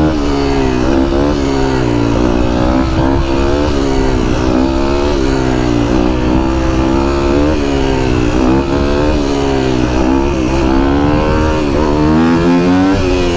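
Dirt bike engine revving up and down again and again as it is ridden, its pitch rising and falling every second or two.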